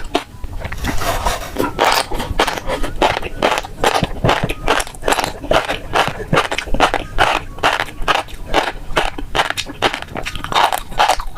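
Close-up chewing of fish roe, with a dense run of wet pops and crackles, several a second.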